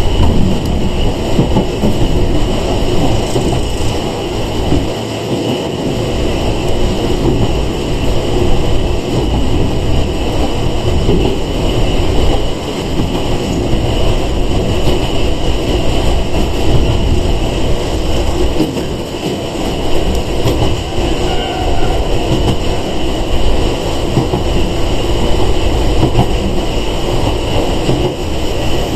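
Steady running noise of a Sangi Railway 101-series electric train heard from inside the car: a continuous rumble of wheels on the rails at speed.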